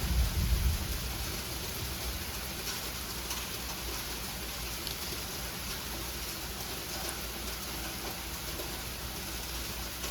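Sleet pellets falling steadily and hitting surfaces, a dense patter of tiny ticks over a hiss, with a brief low rumble in the first second.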